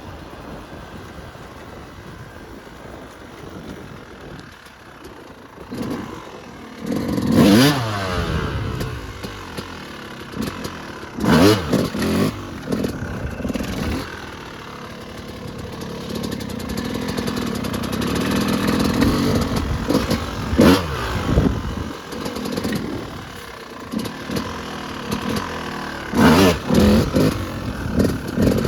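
Yamaha YZ250 two-stroke dirt bike engine being ridden: it runs quietly for the first few seconds, then revs hard in about four sharp bursts of throttle, with its pitch sweeping up and down, and runs steadier in between.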